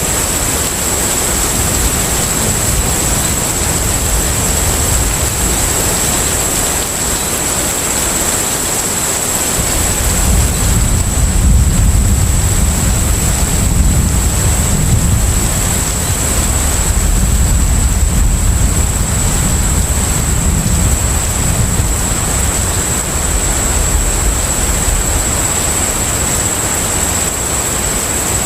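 Container ship at sea: a steady low engine rumble under rushing water and wind noise. The rumble swells for several seconds from about ten seconds in, and a thin, steady high tone runs through it all.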